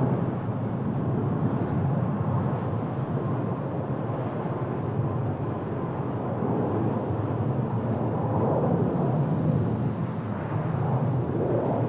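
Boeing 737 MAX 8 airliner landing: a steady roar from its CFM LEAP-1B jet engines, with slow swells in level.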